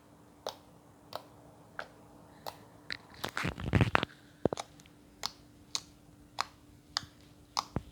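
Milk slime with foam mixed in being pressed and worked by hand, giving small sharp clicking pops about every two-thirds of a second. There is a denser run of louder crackling about three to four seconds in.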